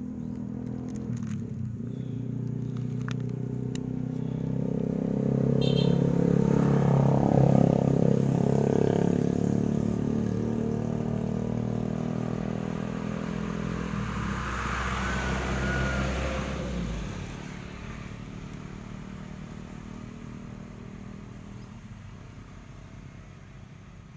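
An engine running, growing louder to a peak about seven seconds in; its low rumble drops away about seventeen seconds in and the sound then fades.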